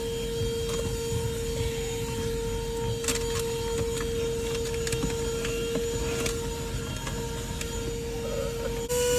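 Vacuum cleaner running steadily, a motor whine over the rush of air, with a few light knocks as it is worked around the car interior. Right at the end its pitch steps up slightly and it gets louder.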